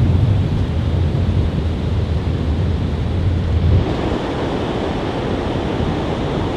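Wind buffeting the microphone: a steady, rushing roar with a heavy low rumble that eases slightly about four seconds in.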